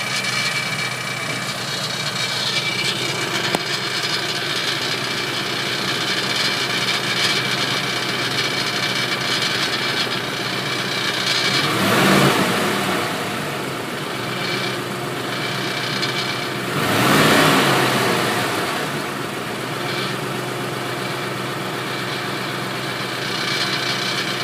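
2007 Ford Expedition's 5.4-litre V8 idling with the air conditioning on, with a rattle from the driver's side front of the engine bay. The engine speed rises briefly twice, about halfway through and again some five seconds later; the owner says the rattle goes away when the gas is pressed.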